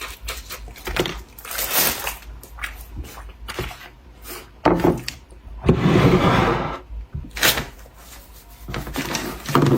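Close-miked eating and food handling: chewing and biting, with irregular knocks and scrapes of containers. The longest noise comes about six seconds in and lasts roughly a second.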